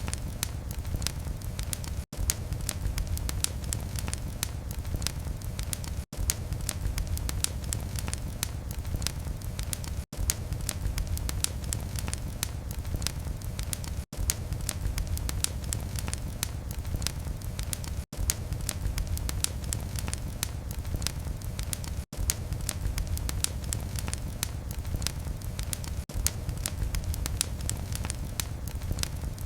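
Wood fire burning in a fireplace, with a steady low rumble of flame under frequent sharp crackles and pops. The sound breaks off for an instant about every four seconds.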